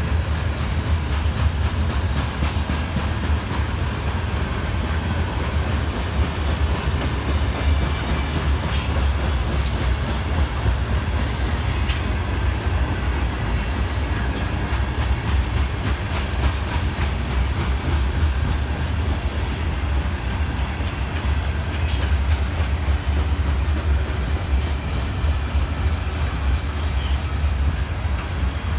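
Freight cars rolling past at close range: a steady heavy rumble with wheels clicking over the rail joints, and a few brief high-pitched squeals from the wheels.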